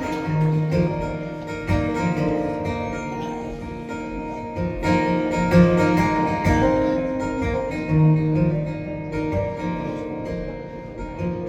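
Acoustic guitar playing the instrumental intro of a song, steady strummed and picked chords with no singing.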